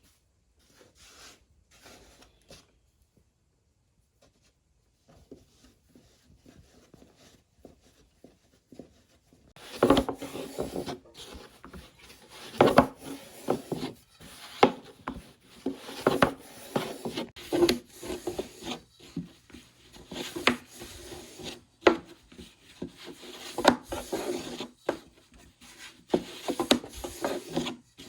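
Hand work with dough or utensils on wood: faint scattered handling for the first several seconds, then, about ten seconds in, repeated irregular rubbing and scraping strokes broken by sharp knocks.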